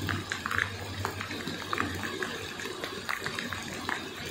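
Heavy rain falling steadily. A low hum fades out about three seconds in, and short high-pitched chirps come and go.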